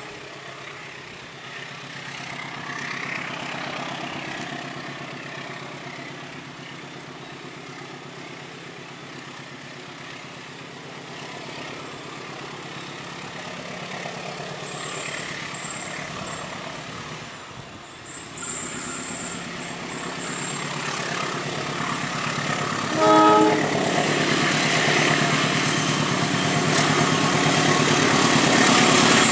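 Diesel-electric locomotive hauling a passenger train, working up a grade, its engine and wheels on the rails growing steadily louder as it approaches over the second half. It gives one short horn blast about two-thirds of the way through.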